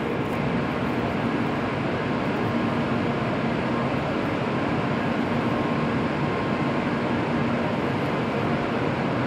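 Steady hum of a JR Kyushu N700-series shinkansen train standing at the platform, its air-conditioning and onboard equipment running, with faint steady tones in the hum.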